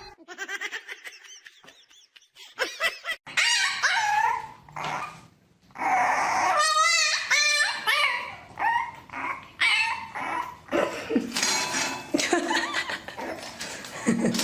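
A dog making a run of short yips, whines and barks with bending pitch, one of them a fast wavering howl a few seconds in.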